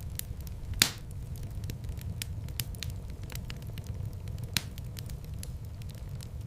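Fire in a fireplace crackling, with a steady low rumble of flames and frequent sharp snaps. One loud pop comes about a second in and another a little past halfway.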